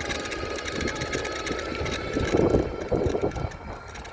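Electric bicycle's assist motor whining steadily while riding, over tyre and wind rumble on the microphone. The rumble grows louder and rougher for about a second in the middle.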